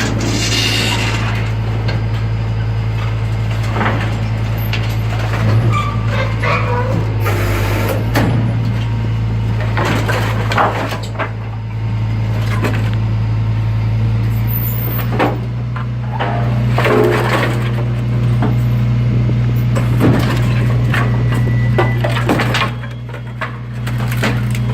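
Garbage truck's compactor press working under a steady low engine and hydraulic drone, with irregular cracks and snaps as the load is crushed and breaks.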